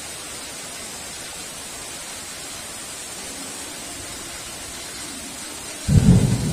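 Heavy rain falling in a steady hiss; a low rumble builds about halfway through, and near the end a sudden loud clap of thunder breaks in and rolls on.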